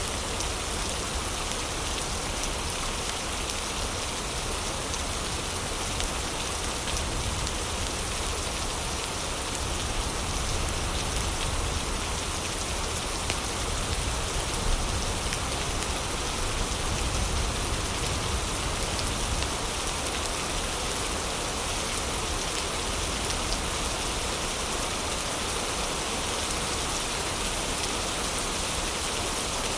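Heavy rain falling steadily, an even dense hiss with a deep low rumble, with small scattered crackles of a fireplace mixed in.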